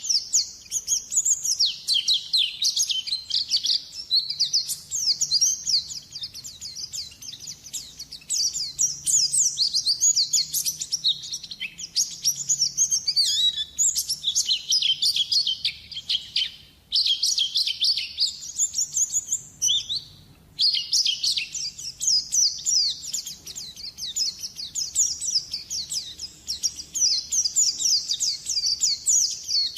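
White-eye (pleci) lure song: fast, high twittering chirps in long continuous runs, broken twice by short pauses in the middle.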